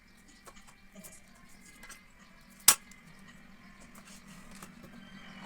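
A single sharp click about halfway through, over faint scattered ticks and a low steady hum.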